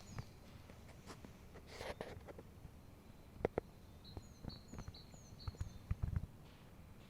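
Footsteps on a forest path, a few irregular crunching steps, with a small songbird repeating a quick high two-note phrase about four times from roughly four seconds in.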